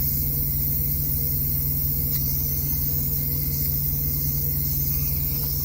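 Instant Pot pressure cooker venting steam through its release valve during a manual pressure release: a steady hiss over a constant low engine-like hum.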